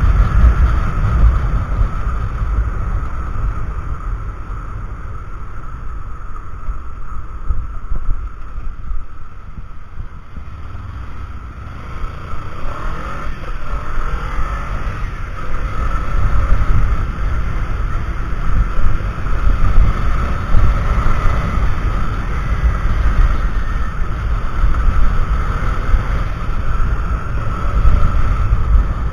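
Riding noise from a motorcycle as picked up by a cheap action camera's microphone: heavy wind buffeting over the Kawasaki Ninja 300's engine. It eases for several seconds about a third of the way in, then builds up again.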